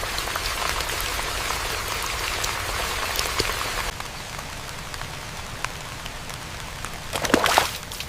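Rain falling, a steady hiss with scattered drop ticks; it turns quieter about four seconds in, and a louder cluster of splashing drops comes near the end.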